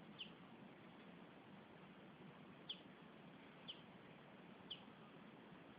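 Four short, high chirps, each falling in pitch, spaced about a second apart after the first, over a faint steady hiss.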